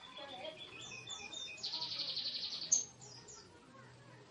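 Lovebird calling: scattered high chirps, then a rapid high-pitched chattering trill of about a second, the long 'ngekek', ending on a sharp higher note, followed by a few faint chirps.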